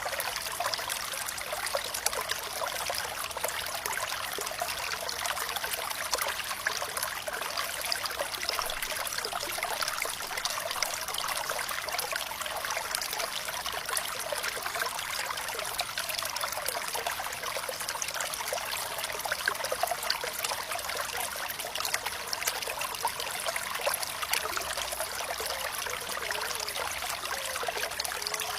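Water flowing and trickling steadily, a bright, fine splashing with little low rumble.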